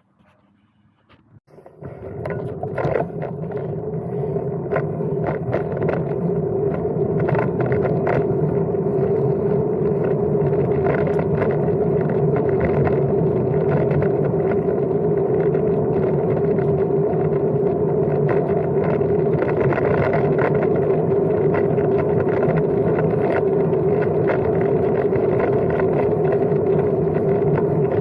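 Brompton M3L folding bike being ridden: a steady rumble of tyres and wind with scattered small rattles and clicks. It starts about two seconds in and builds up over the next few seconds as the bike gets under way.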